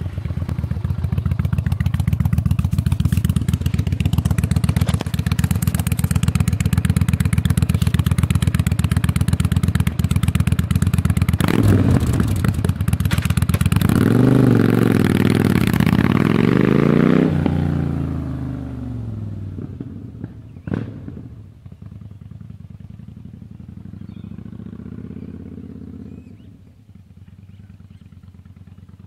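Yamaha Star Bolt's air-cooled V-twin, just started, running loud through a custom exhaust, then revved up and down several times about halfway through. It then sounds much quieter, with one sharp click partway through the quieter stretch and a small rise and fall in pitch near the end.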